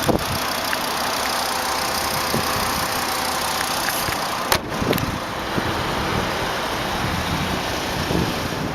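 2005 Volkswagen Jetta's 2.5-litre five-cylinder engine idling steadily, with a couple of short knocks about four and a half seconds in.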